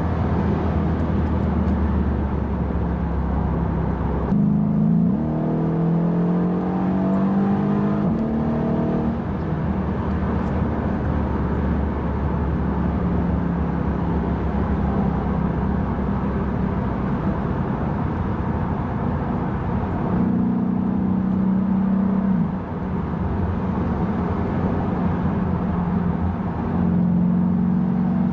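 Mercedes E63 AMG's twin-turbo V8 heard from inside the cabin over steady road noise. The engine pulls harder about four seconds in, its note climbing through a gear change until about nine seconds, and swells again later on.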